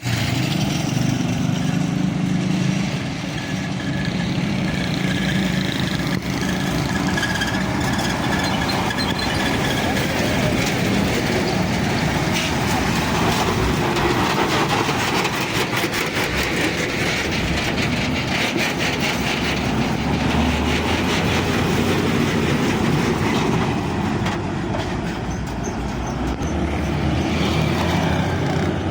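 Heavy vehicles running steadily, with engine rumble and a stretch of rattling clatter in the middle.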